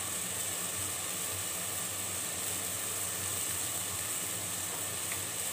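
Onion-tomato masala paste, with ginger-garlic paste and yogurt just stirred in, sizzling as it fries in a pot: a steady hiss.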